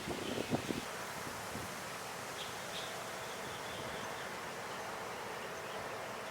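Steady outdoor background noise with a faint steady hum and a few faint, short high chirps.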